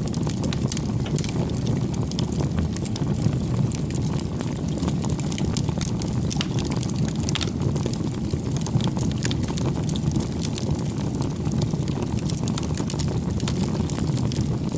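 Wood bonfire burning, a steady low rush of flames with frequent, irregular sharp crackles and pops of burning wood.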